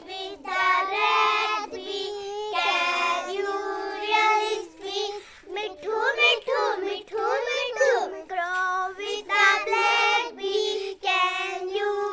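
A young child singing a rhyme in a high voice, in continuous sung phrases with short breaths between them.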